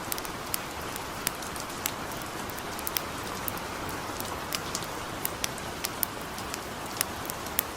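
Steady light rain hissing evenly, with irregular sharp crackles and pops from a wood campfire, a few every second.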